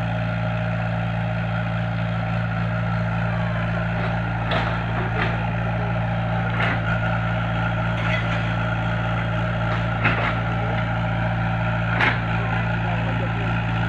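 A heavy machine's engine running steadily at a constant speed, with a few sharp knocks and clanks scattered through it; the loudest knocks come about ten and twelve seconds in.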